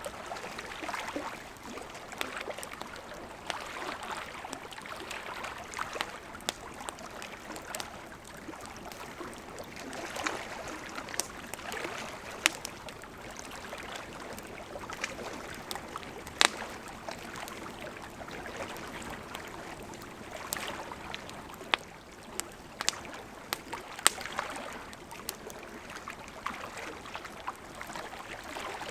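Campfire crackling, with scattered sharp pops, a few of them loud, over the steady rush of a gently flowing river.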